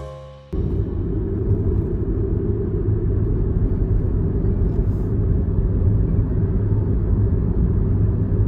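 Loud, steady low rumble that starts abruptly about half a second in, as the end of some piano music is cut off.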